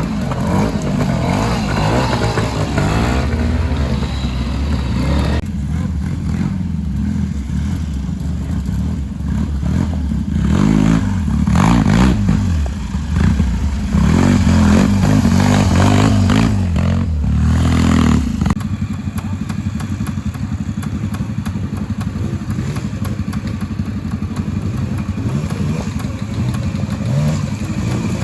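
Trials motorcycle engine rising and falling in pitch as the throttle is worked through a section, loudest about two-thirds of the way in, then dropping suddenly to a lower, steadier note.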